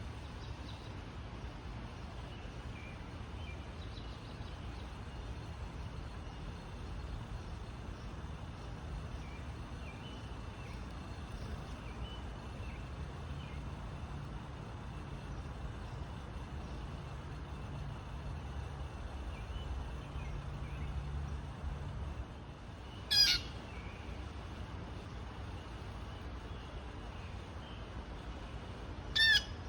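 Small birds chirping faintly now and then over a steady low rumble. One loud, harsh blue jay call comes about three-quarters of the way through, and another begins right at the end.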